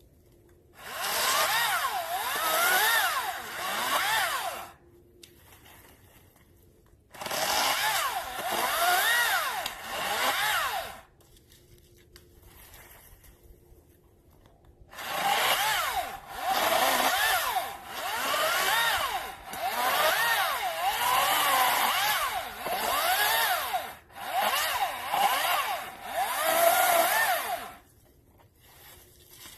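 Greenworks 40-volt DigiPro 14-inch cordless electric chainsaw cutting wood in three runs: two of about four seconds, then one of about thirteen seconds. Its motor whine dips and recovers as the chain bites, and it falls nearly silent each time the trigger is released, with no idle between cuts.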